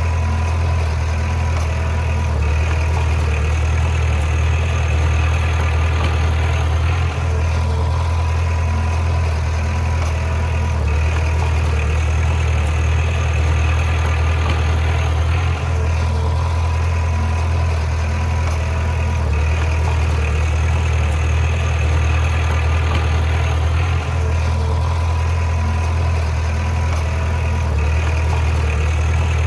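Heavy earthmoving machine's diesel engine running steadily, a constant low drone that hardly changes in level.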